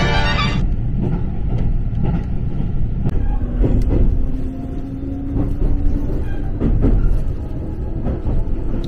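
A train running, heard from inside the passenger car: a steady low rumble, with a hum that rises slightly in pitch for a few seconds in the middle.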